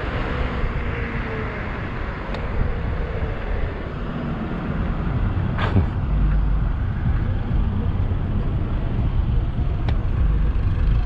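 Steady rumbling road and traffic noise heard from an electric bike while riding, with a faint gliding tone near the start and a few short sharp clicks.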